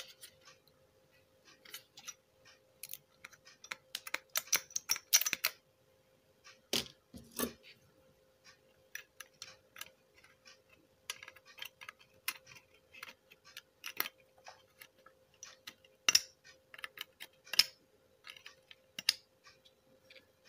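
Small irregular clicks, taps and scrapes of soldering tools working on a circuit board as solder is added to the legs of the stereo's audio amplifier IC, over a faint steady hum.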